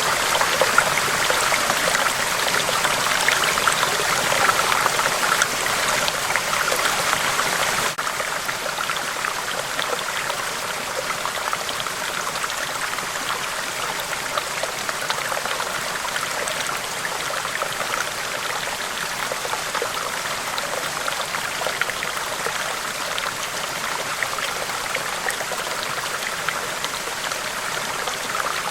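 River water rushing over rocks in a steady, even wash. It drops slightly in level about eight seconds in, then runs on unchanged.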